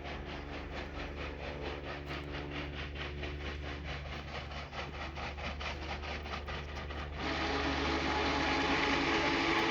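A large engine running with a fast, even beat of about five strokes a second. About seven seconds in it grows suddenly louder into a steady roar with a few held tones.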